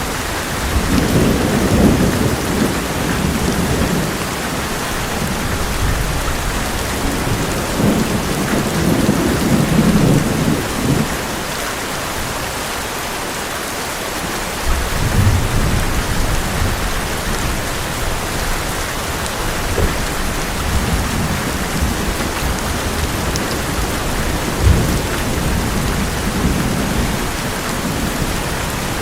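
Heavy rain drumming steadily on an old metal roof, with thunder rumbling several times: long low rolls in the first few seconds and about a third of the way in, more near the middle and end, and one short, sharper thump near the end.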